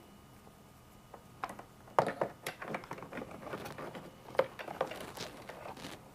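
A string of small clicks, taps and rustles from wires and plastic connectors being handled, the sharpest click about two seconds in.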